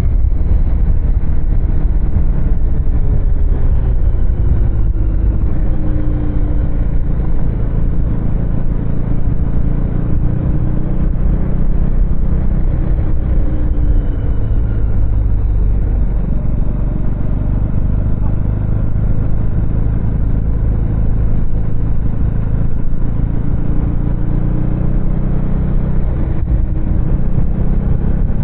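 2024 Husqvarna Svartpilen 250's single-cylinder engine running while the bike is ridden, its pitch rising and falling slowly with the throttle, over a strong low rumble.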